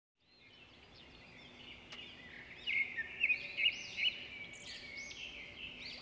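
Several birds singing and chirping at once, a mix of quick repeated chirps and arching whistled notes, loudest about three to four seconds in.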